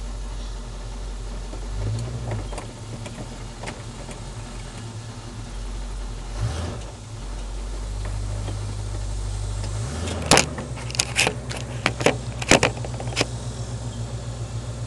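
1979 Camaro Z28's V8 idling with a steady low rumble, its pitch shifting a few times. About ten seconds in the engine note changes as the throttle is hit, followed by a quick run of sharp clattering knocks, a can falling over.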